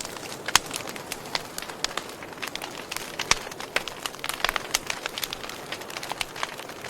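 Fire crackling: a steady hiss with irregular sharp pops and snaps, several a second.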